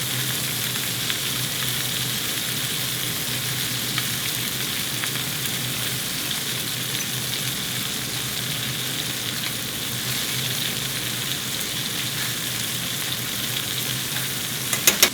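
Food sizzling steadily in a hot frying pan, with a few sharp clicks near the end.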